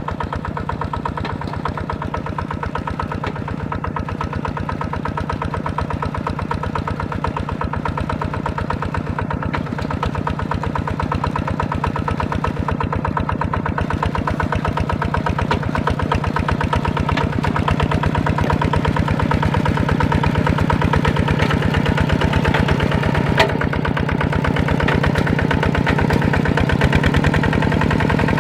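Small tractor engine running steadily with a fast, even chugging beat, growing gradually louder. A single sharp click about three-quarters of the way through.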